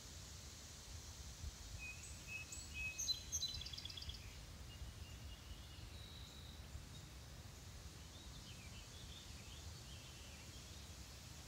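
Faint outdoor ambience with birds calling: a few short notes and a quick trill of chirps about three seconds in, and scattered faint chirps later, over a steady low rumble and a high hiss.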